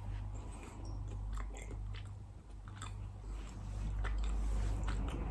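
Close-miked mouth sounds of biting into and chewing a piece of red Leicester cheese dipped in hot sauce: small, scattered wet clicks over a steady low hum.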